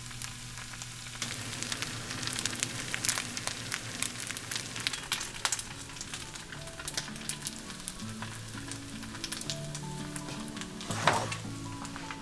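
Food frying in hot oil in a pan, sizzling with a dense run of small crackles and pops. About eleven seconds in there is a brief louder burst of sizzle.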